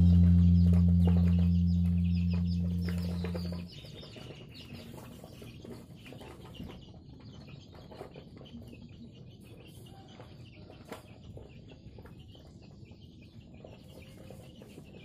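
A low held musical chord fades and stops abruptly a little over three seconds in. After it, faint birds chirp and call repeatedly.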